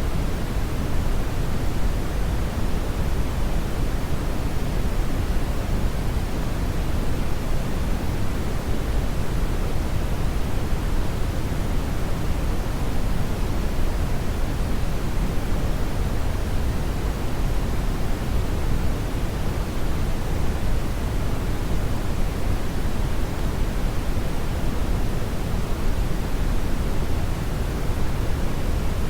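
Steady brown noise: a constant, even rumbling hiss, strongest in the bass and falling away in the treble, with no changes or events.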